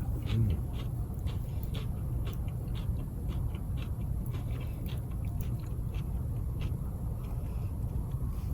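A wood fire crackling, with irregular small pops several times a second over a steady low rumble.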